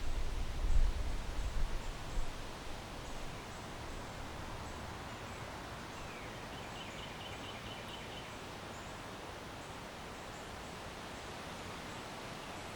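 Wind gusting over the microphone with a low rumble for the first couple of seconds, settling into a steady hiss of wind through the trees. About six seconds in, a bird gives a short rapid string of chirps.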